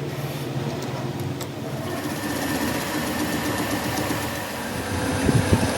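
A workshop machine's motor running steadily, its tone changing about two seconds in, with a few sharp knocks near the end.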